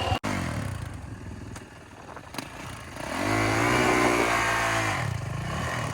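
Dirt bike engine running, revved up about three seconds in and held for roughly two seconds before dropping back.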